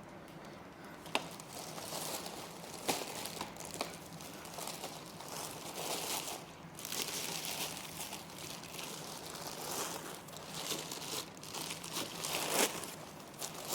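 Plastic packaging wrap crinkling and rustling as it is pulled off and handled, with irregular sharp crackles.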